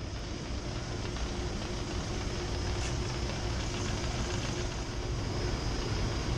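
Steady industrial machinery noise: a constant low hum and rushing noise with a faint steady tone running through it.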